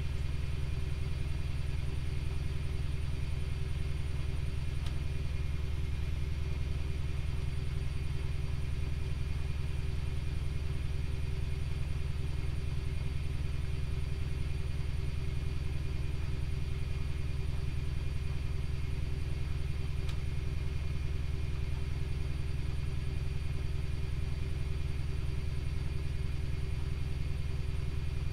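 Privileg Multispar 5110 front-loading washing machine running steadily with a deep, even rumble and a steady hum.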